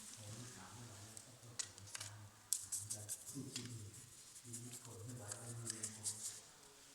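Faint voices talking, mixed with scattered light scratching and clicking.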